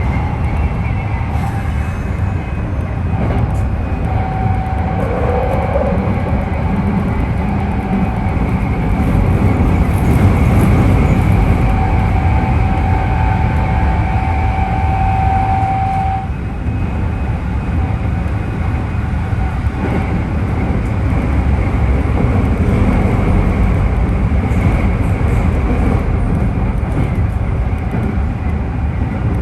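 Keikyu train car DeHa 1097 heard from inside the cabin while running: a deep rumble from under the floor with a steady motor whine, which cuts off abruptly a little past halfway. The uploader takes the heavy bass and growl as abnormal Mitsubishi traction motor noise, possibly from motor wear.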